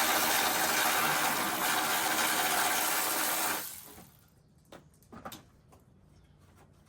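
Cordless power tool running steadily with a whining motor for about three and a half seconds, then stopping. A few faint clicks of handling follow.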